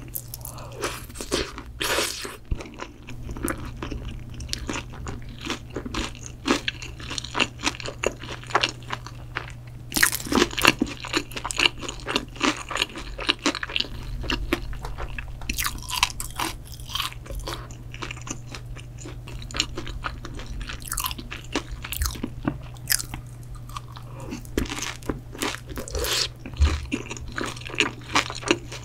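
Close-miked eating: a person chewing food with many irregular crisp crunches and wet mouth sounds, densest about ten seconds in, over a steady low hum.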